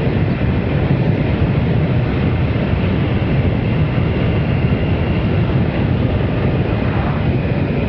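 Triumph Sprint RS motorcycle ridden at steady road speed: a constant rush of wind over the microphone mixed with the engine's low rumble, with no change in revs.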